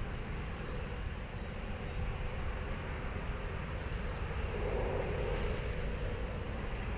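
Faint, steady distant engine drone with a slight swell about halfway through, over outdoor background noise.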